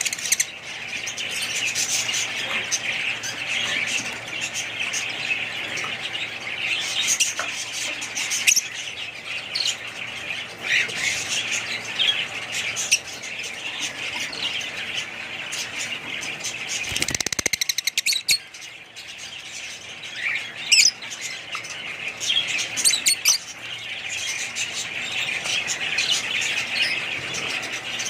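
A crowd of small birds chirping and squawking over one another without pause. About two-thirds of the way through, a brief rasping scrape is heard, and the chatter dips for a moment before it fills back in.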